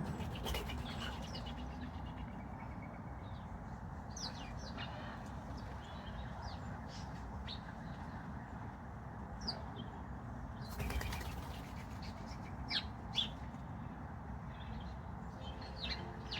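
Wild garden birds chirping with short, scattered high calls, with a brief flutter of wings about half a second in and again around eleven seconds in, over a steady low background noise.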